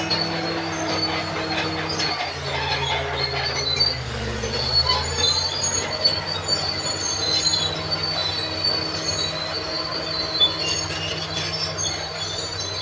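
Crawler bulldozer at work: the diesel engine runs under changing load, its pitch dropping about two seconds in and shifting again near four seconds, while the steel tracks squeal and clank.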